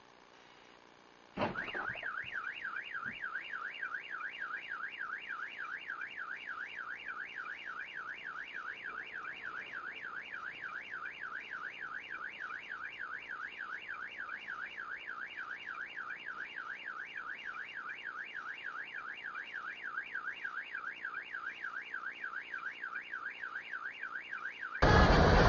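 A sharp bang about a second and a half in, then a car alarm sounding a fast, even up-and-down warble. Near the end it cuts off abruptly into much louder noise.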